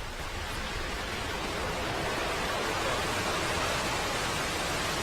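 Falcon 9 rocket's first-stage engines at liftoff: a dense, even rushing noise that builds over the first two seconds or so, then holds steady.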